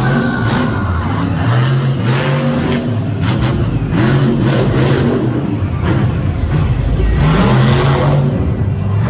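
Monster truck engine revving hard, its pitch rising and falling repeatedly as the throttle is worked.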